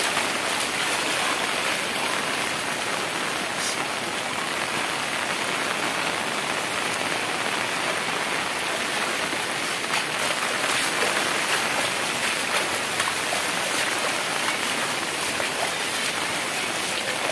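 Steady rain falling on surfaces, an even hiss of drops that keeps a constant level throughout.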